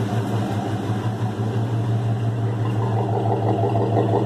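Exhaust of a 1993 Chevy Caprice's small-block V8, a 305 bored over and rebuilt as a brand-new Jasper engine, idling steadily through its tailpipes. It gets a little louder about three seconds in.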